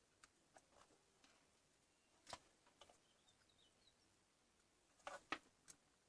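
Near silence broken by scattered faint clicks and taps, the loudest about two seconds in and a small cluster about five seconds in.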